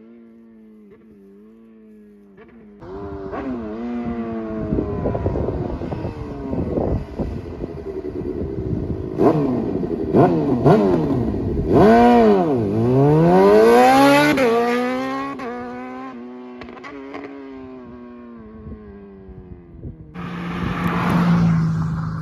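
2020 Suzuki GSX-R750's inline-four, on a slip-on exhaust and a Moore Mafia ECU flash, idling steadily for a few seconds, then revving hard with its pitch climbing and dropping again and again. It is loudest in the middle, where the pitch falls sharply and climbs back, then eases off, and a rush of noise starts near the end.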